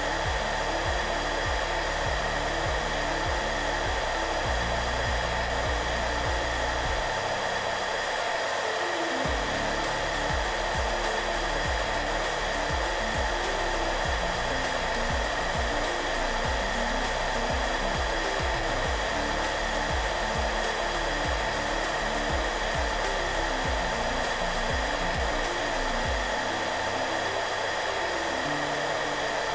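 Hair dryer running steadily, a constant airy hiss at an even level throughout. Soft background music with slowly changing deep notes plays underneath.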